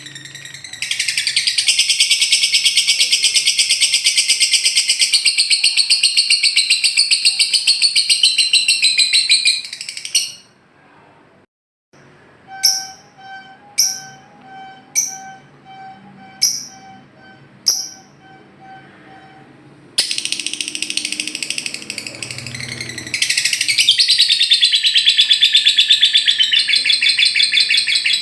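Lovebird's ngekek: a long, loud, very rapid chattering trill, used as a lure to set a silent caged lovebird singing. It breaks off about ten seconds in, gives way to about six short sharp chirps over a faint pulsing tone, and starts again near twenty seconds.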